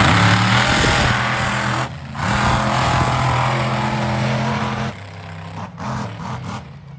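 Monster truck engines running hard at high throttle. They cut off briefly about two seconds in, then drop away about five seconds in, leaving a few short throttle blips.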